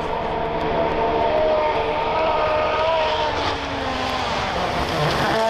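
World Rally Car's 1.6-litre turbocharged four-cylinder engine held at high revs, its pitch wavering slightly; right at the end the pitch starts to fall.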